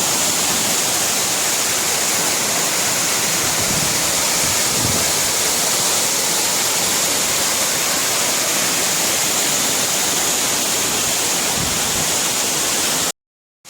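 Waterfall rushing: a steady, loud, even roar of falling water. It drops out abruptly to silence for about half a second near the end.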